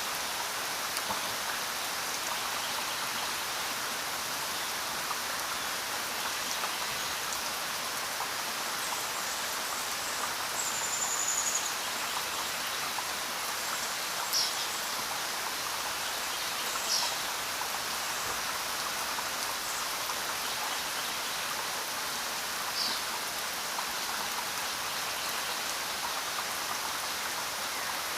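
Steady rain falling in a forest, an even hiss of drops with no letup. A few short high chirps come through it, one near the middle and a few more later on.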